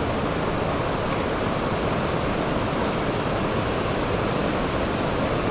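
Steady rush of falling and flowing creek water, an even unbroken hiss and roar.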